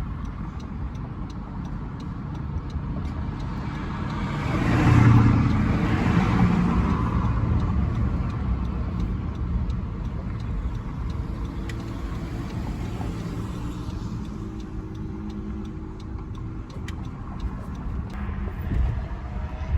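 Car running, with a steady engine and road rumble that swells to its loudest for a couple of seconds about five seconds in.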